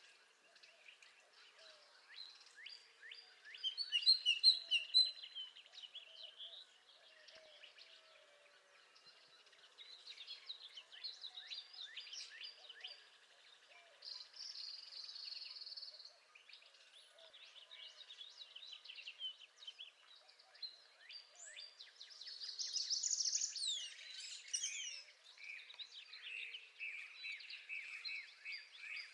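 Several songbirds singing at once, among them a northern parula (a warbler). The loudest song, about 22 seconds in, is a rising buzz, and a rapid trill of repeated notes follows near the end.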